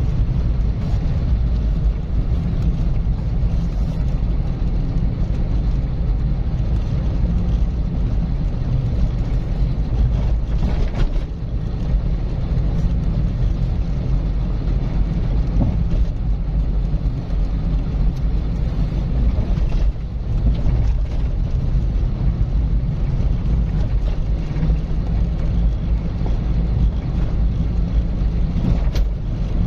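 A car driving at a steady speed: a constant low rumble of engine and tyre noise, with a couple of faint clicks.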